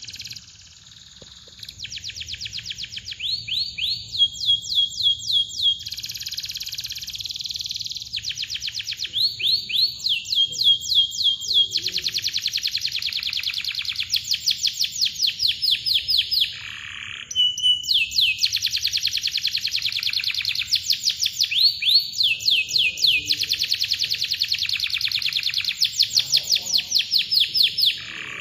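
Domestic canary singing: fast chirping notes run together into long, tight trills (rolls), phrase after phrase with short breaks between, some phrases ending on a brief held note.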